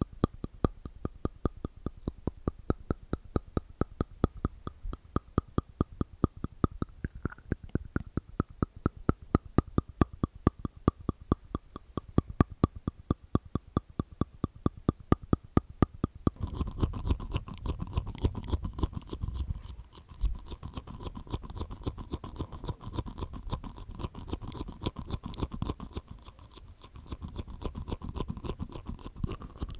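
Close-miked ASMR mouth sounds from the tongue and teeth: a steady run of sharp tongue clicks, about four a second, that changes about halfway through to a denser, faster crackle of clicks.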